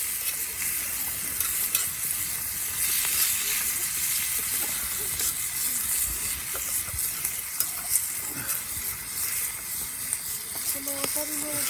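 Food sizzling in a cast-iron skillet over a campfire: a steady frying hiss with scattered spitting pops.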